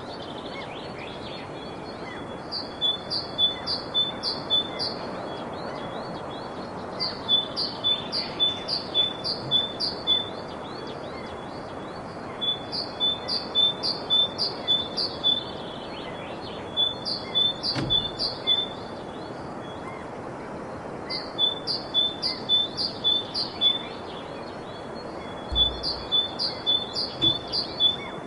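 A songbird singing the same phrase over and over, a run of about six to eight quick, high notes, repeated about six times with short pauses between. A steady rushing background noise lies under the song.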